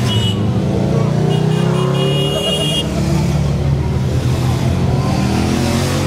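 Motorcycle engines running, one rising in pitch over the first couple of seconds as it revs up.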